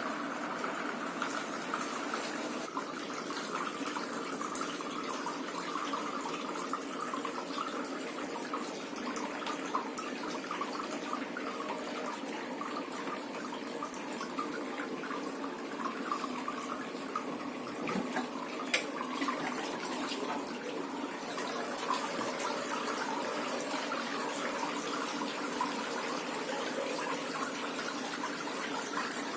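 Water trickling and splashing steadily down a small cement-and-styrofoam tabletop waterfall fountain, with one brief click about two-thirds of the way through.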